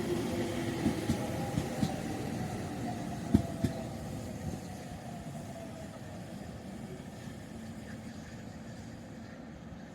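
A train passing and moving away: a few wheel clacks over rail joints in the first few seconds, and a falling whine as it recedes. The sound then fades into a dwindling rumble.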